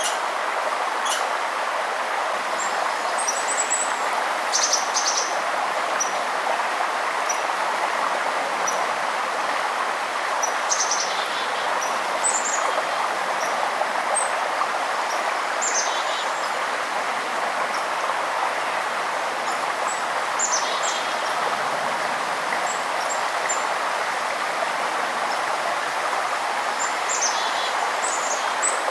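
Steady rush of flowing river water, with birds giving short high chirps and trills every few seconds above it.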